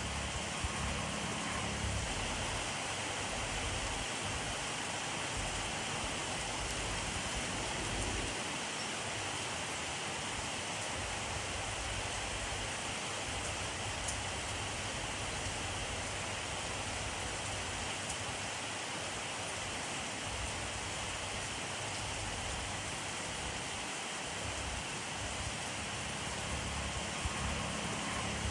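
Steady rainfall: a dense, even hiss of rain falling, with occasional faint drop ticks and a low rumble underneath.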